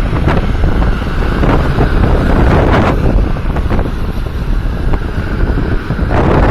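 Tractor engines running, with heavy wind buffeting the microphone in gusts.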